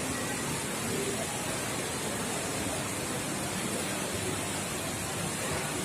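Steady rushing background noise of a shopping mall's ambience, with faint distant voices.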